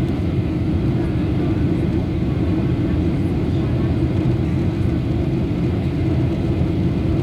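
Steady jet-airliner cabin noise: the engines and rushing air, heard from inside the passenger cabin, even and unbroken.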